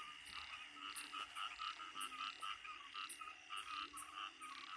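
Dense chorus of frogs calling after rain: many short pulsed calls overlap several times a second, with a few short, low calls among them, a breeding chorus that includes the banded bullfrogs (Kaloula pulchra) being hunted here.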